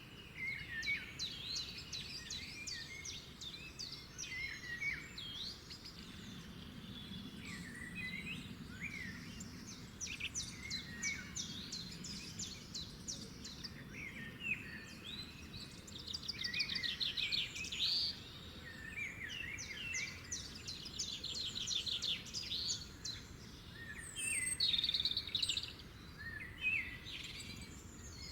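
Several songbirds singing and calling together, overlapping rapid trills and short chirping notes, over a faint low background rumble.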